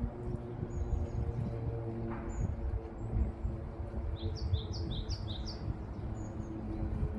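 Small birds chirping, with a few short high calls and, just past the middle, a quick run of about eight chirps alternating between two pitches. A low rumble of wind on the microphone and a steady low hum run underneath.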